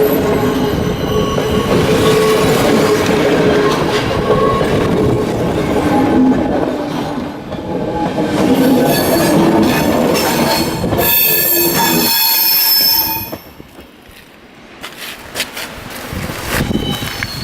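Passenger train carriages rolling past with high-pitched wheel squeal and clickety-clack over the rail joints. The sound drops away sharply about 13 seconds in, as the end of the train passes.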